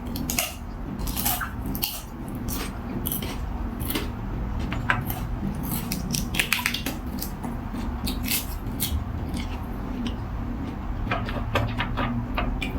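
Eating sounds close to the microphone: repeated short, crisp crunches and smacks of chewing, over a steady low background hum.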